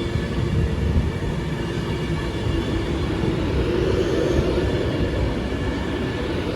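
Train running close by: a steady rumble with a humming tone that swells and eases slowly.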